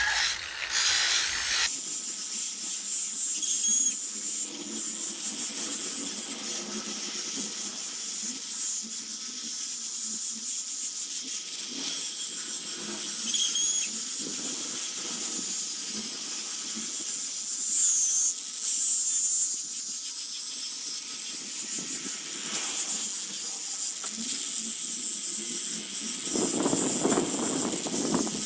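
A power tool working wood: a steady high hiss with a thin high whine, a few short squeaks, and a fuller, louder stretch near the end.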